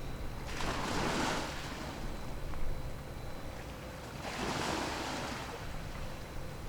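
Small waves washing in twice, each a rush about a second long, about a second in and again past the middle, over a steady low rumble.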